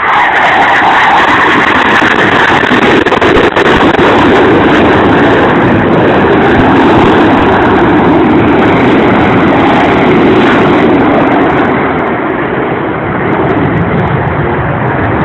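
Loud jet roar of Blue Angels jets flying past, the noise dropping in pitch as they pass and easing off slightly near the end.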